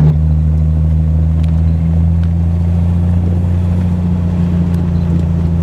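Triumph TR6's straight-six engine cruising steadily in third gear at about 1,800 rpm, a low, even drone through its Monza exhaust with steel resonators.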